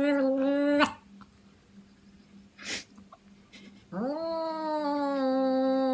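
A cat's long, drawn-out yowls. One ends just under a second in; after a short noisy puff of breath, a second long yowl starts about four seconds in, rising at first and then holding a steady pitch.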